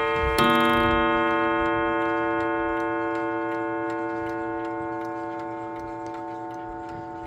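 Baduf mantle clock striking once on its gong about half a second in, the ring fading slowly, with the movement ticking faintly underneath.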